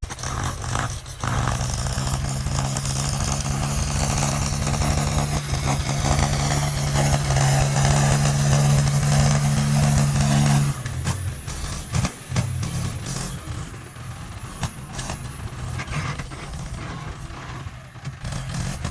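Heavy machine's engine running loudly and steadily, then dropping off about eleven seconds in to a lower, rougher rumble with scattered clatter.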